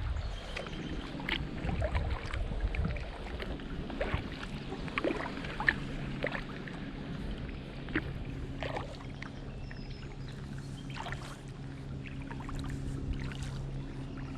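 Kayak paddling: water dripping and splashing off the paddle in small irregular ticks. A steady low hum comes in about three seconds in and holds.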